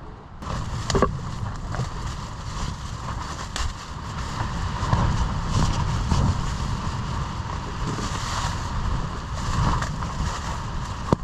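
Strong wind gusting across an exposed mountaintop, buffeting the microphone with a heavy rumble that swells and eases. There is a sharp tap about a second in.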